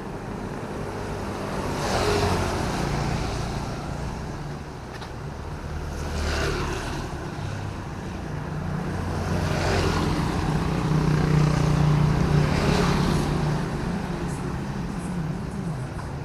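Traffic on a wet city road: vehicles swish past one after another, about four passes, over a steady low engine rumble.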